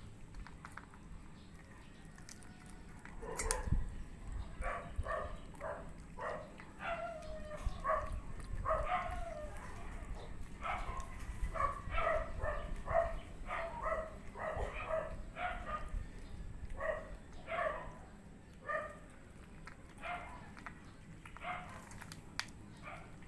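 A pet animal giving short, pitched calls over and over, about one or two a second, starting a few seconds in.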